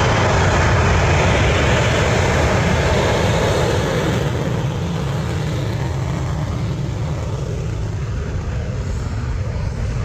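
Jet noise from a Eurofighter Typhoon FGR4's twin Eurojet EJ200 turbofans on a performance take-off: a loud rushing rumble. About four seconds in the higher hiss fades and the level drops a little, leaving a steady low rumble as the jet moves away.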